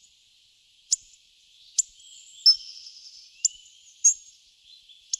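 Birds chirping: short, sharp, high calls about once a second over a faint, steady high tone.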